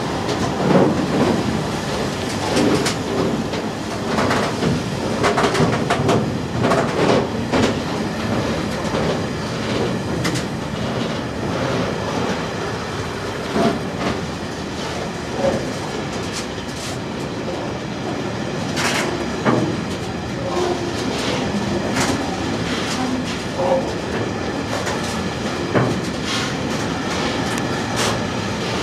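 A long rake of Network Rail engineering wagons, including MRA ballast wagons, rolling past: a steady rumble of wheels on rail with frequent irregular sharp knocks and clatter.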